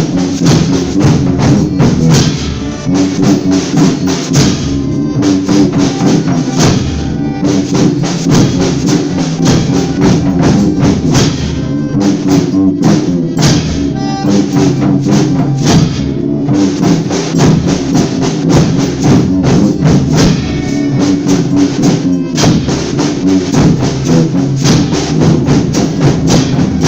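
Folia band playing an instrumental passage between sung verses. Drum and tambourine keep a dense, steady beat over held melody notes.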